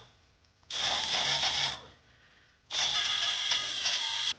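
Compressed-air tool run in two bursts, about a second and a second and a half long, each a hiss with a steady high whine.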